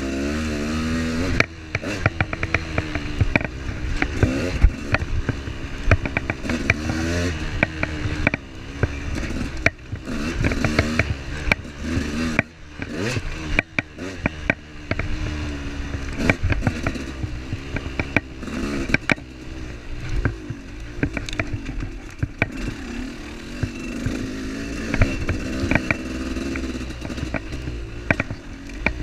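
Vehicle engine running on a rough dirt trail, its revs rising and falling throughout, with frequent rattles and knocks from the bumpy ground.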